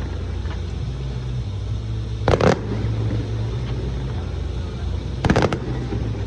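Fireworks going off: two quick volleys of sharp cracks about three seconds apart, the first about two seconds in and the second near the end, over a steady low rumble.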